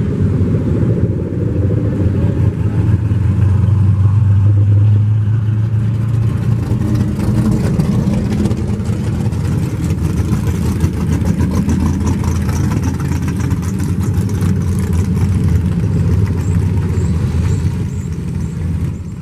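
Muscle car engines running as the cars drive past, a deep continuous engine sound that is loudest about four to six seconds in.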